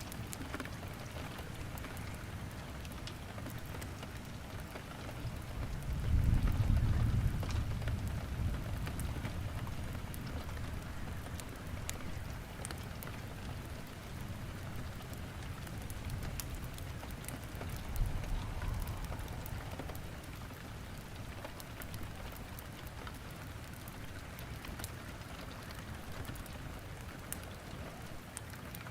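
Steady rain with the crackle of wood burning in a fireplace. Low rumbles of thunder swell about six seconds in and again around eighteen seconds.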